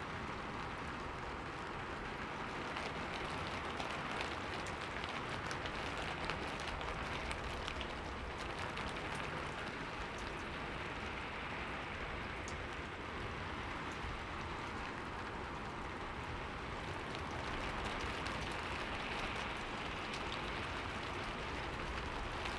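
Steady rain falling on a window pane, an even patter with many small drop ticks.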